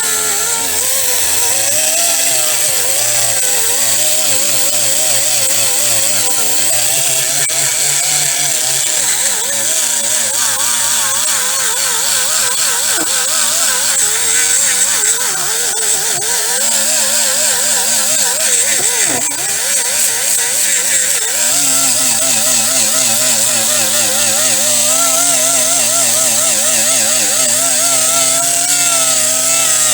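Hand-held power tool stripping rust from a car's steel body: a steady high hiss over a motor whine that wavers up and down in pitch as the tool is worked against the metal.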